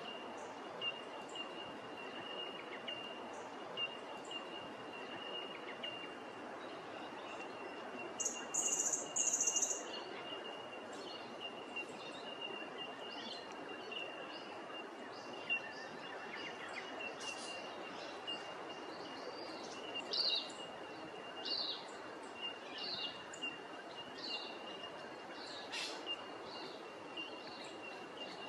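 Wild birds chirping and calling over a steady outdoor hiss, with a thin high tone running underneath. Two louder high-pitched calls come about eight to ten seconds in, and short chirps come often through the second half.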